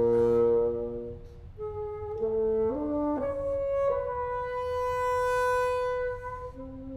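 A solo bassoon and chamber ensemble play contemporary classical music: held wind notes in several voices step upward, then one long note is held for a couple of seconds.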